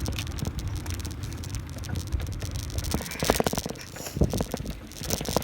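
Bicycle riding over a rough trail: a rapid, irregular clatter of clicks and rattles from the bike over bumps, over a steady low rumble of wind on the microphone.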